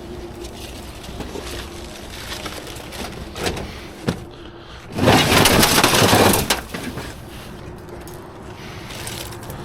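Scrap and debris being shifted by hand in a metal dumpster: scattered knocks and clicks, then about five seconds in a loud clatter lasting about a second and a half.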